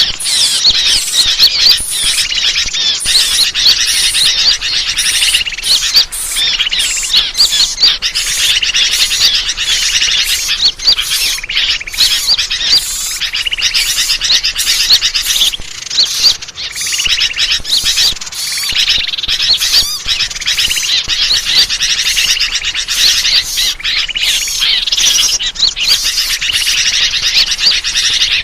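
Dense chorus of many small birds chirping and calling over one another without pause, a bird-lure (pikat) recording used to draw birds in.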